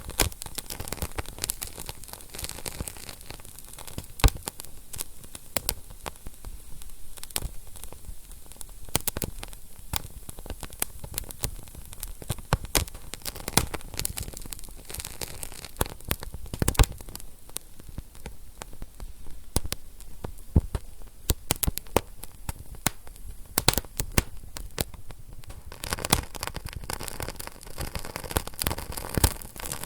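Wood fire crackling in a fireplace: a soft steady hiss under irregular snaps and pops, a few of them louder.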